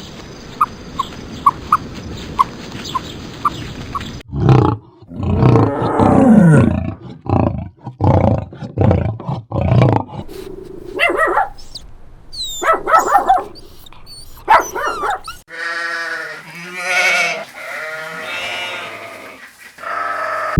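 A run of different farm animal calls one after another, some low and growling, some falling in pitch, ending in several long, strongly pitched calls. The first few seconds hold a steady series of light ticks, about two a second.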